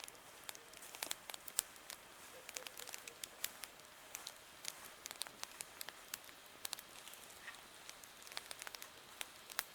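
Campfire crackling: irregular sharp pops and snaps, several a second, over a faint steady hiss.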